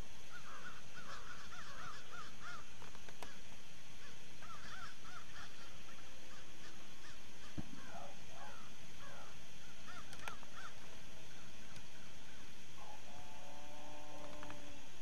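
Wild birds calling: many short, arched chirps in quick runs, with a longer call held at one pitch near the end, over a steady hiss.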